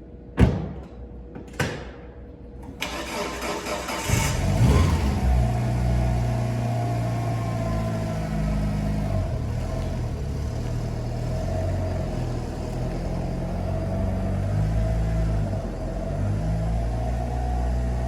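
Two sharp clicks, then a car engine cranks and starts about four seconds in and settles into a steady idle.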